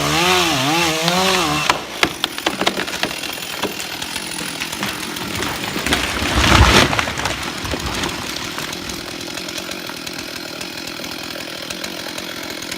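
Chainsaw running at high revs, its pitch wavering up and down as it cuts, then stopping about two seconds in. Crackling and rustling noise follows, with a heavy thud about halfway through.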